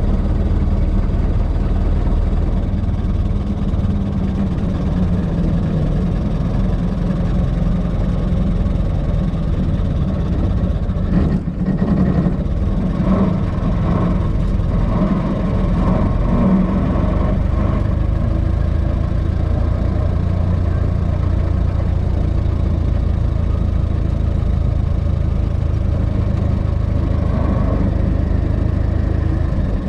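1926 Ford Model T's four-cylinder flathead engine running steadily at low speed as the car drives slowly along.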